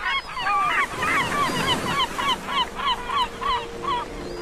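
Birds calling: several overlapping calls at first, then one bird's call repeated about three times a second, stopping shortly before the end.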